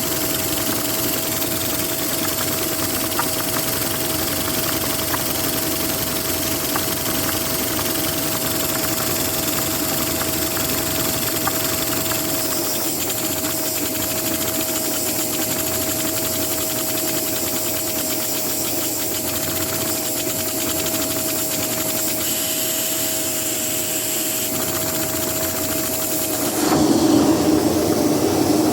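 A vacuum cleaner's steady rush of air and single steady whine, driving a Lego vacuum-powered inline-two engine that adds faint rapid ticking. Near the end the sound changes suddenly and gets louder, and the whine stops.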